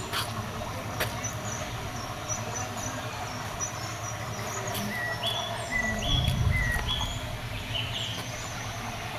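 Small birds chirping over steady outdoor background noise, with a run of short repeated calls, each stepping down in pitch, about twice a second through the second half. A low rumble comes in briefly about six seconds in.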